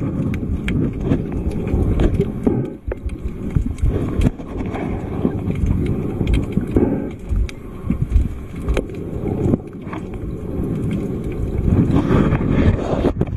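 Underwater noise: an uneven low rumble of water moving around the camera, with scattered sharp clicks throughout.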